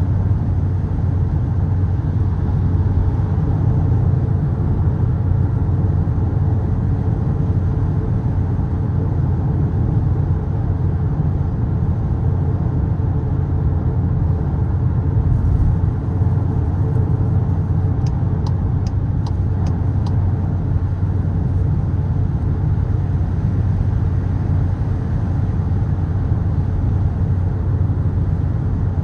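Skoda Kodiaq RS's 2.0 TSI turbocharged four-cylinder petrol engine and exhaust droning steadily at a constant cruise, mixed with tyre and road noise.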